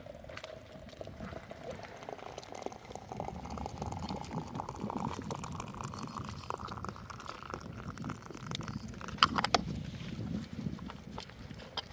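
Water running into a container, its pitch rising steadily as the container fills. A few sharp knocks about nine seconds in.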